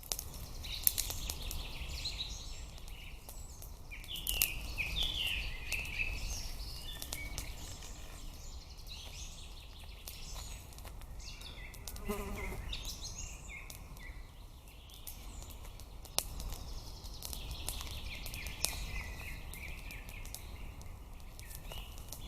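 Forest ambience: birds twittering in bursts, with scattered sharp clicks and a low steady rumble underneath.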